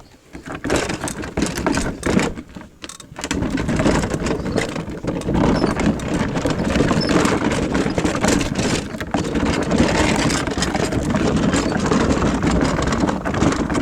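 Dirt bike engine running, uneven for about three seconds, then steady and loud.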